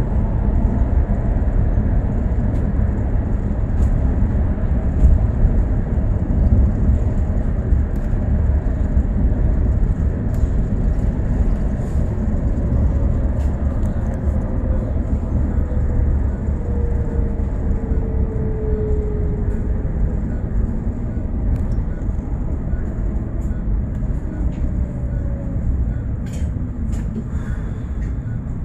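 Bus in motion heard from inside the cabin: a steady low rumble of engine and road, with a whine that slowly drops in pitch about halfway through and a few light rattles near the end.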